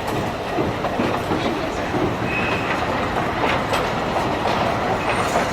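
Alishan Forest Railway narrow-gauge train running: a steady rumble with scattered clicks of the wheels over the rails, and a brief wheel squeal a little after two seconds in.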